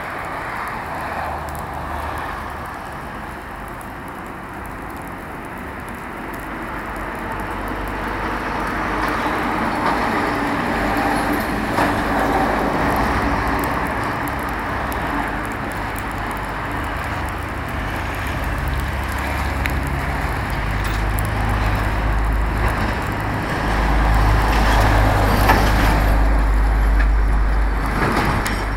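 Large bonfire of autumn leaves burning, a steady rushing noise with a deep rumble underneath that grows louder in the second half.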